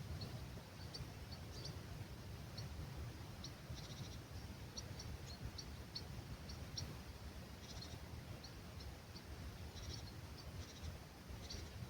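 Small birds singing at dawn among olive trees: many short high chirps and a few quick trills, over a steady low rumble of breeze.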